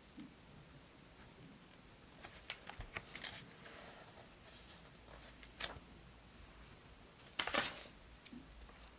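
Light clicks and taps of paper and stationery being handled on a desk, a cluster of them in the middle, then one louder brief paper rasp, like a snip or a sticker peeling, about seven and a half seconds in.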